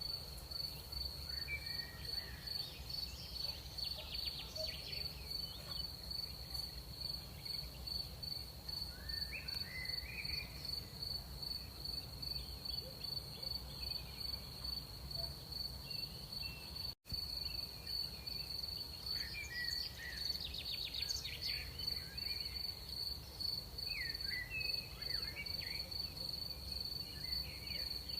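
Crickets trilling steadily in one high, rapidly pulsing tone, with scattered short chirps from other night creatures and a low background rumble. The whole sound cuts out for an instant about two-thirds of the way through.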